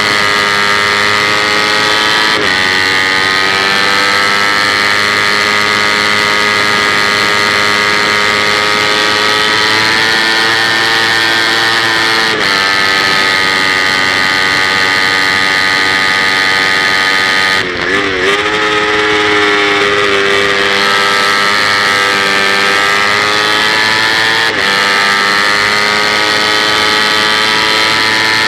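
Kawasaki Ninja 250 parallel-twin race engine running hard at high revs on track, with steady wind rush. The pitch breaks and steps at gear changes about three times, and there is a brief lift off the throttle about two thirds of the way through.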